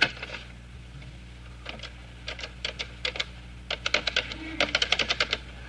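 A telephone being dialled. A sharp click comes first, then short runs of quick, evenly spaced clicks, broken by pauses, like the pulses of a rotary dial turning back after each digit.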